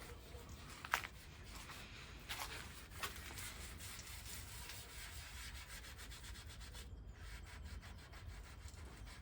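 Faint hand rubbing on the plywood-panelled wood of a chest of drawers, steady back-and-forth strokes with no motor running, with light knocks about one and three seconds in. This is the work between coats of darkened mahogany stain.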